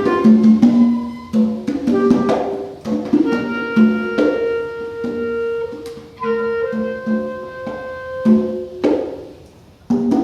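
Free-improvised live music: a melodic instrument plays short notes and then long held tones through the middle, over scattered conga strikes.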